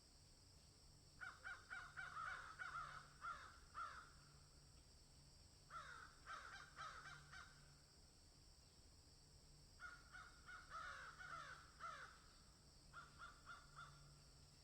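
Birds calling in four bouts of rapid short notes, with a faint steady high hiss behind them.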